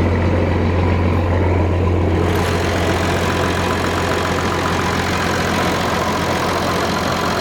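Six-cylinder Perkins turbo diesel of a Massey Ferguson 760 combine running steadily, a deep hum with its sound growing brighter about two seconds in. It is running on the mechanical lift pump with the electric fuel pump removed, in a fuel system leaking and drawing air.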